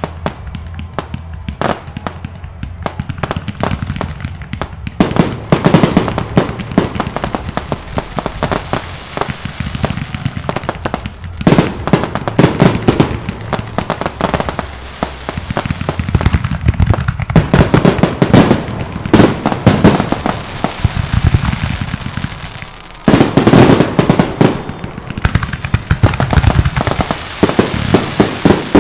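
Fireworks display: a dense run of bangs and crackling pops from bursting aerial shells, coming in several loud clusters with deep low booms underneath.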